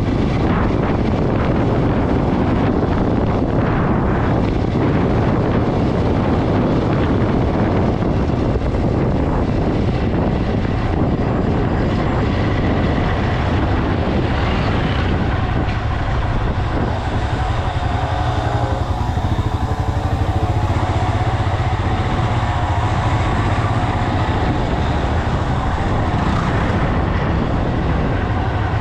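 Motorcycle riding along a road: a steady rush of wind on the microphone over the running engine. About halfway through, the rush thins and a few faint steady tones come through.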